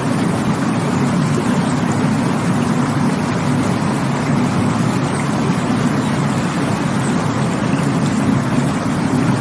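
Rushing water, a steady, even rush with no breaks or changes.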